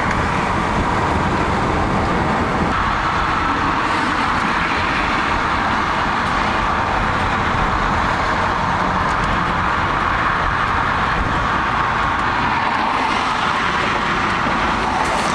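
Steady road and engine noise of a moving vehicle, an even rumble with no clear pass-bys or breaks.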